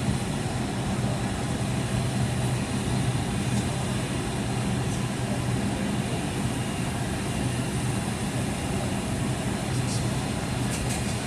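Steady cabin noise inside a Boeing 757-251 on the ground before takeoff: a low, even engine hum under a constant rush, with a few faint clicks near the end.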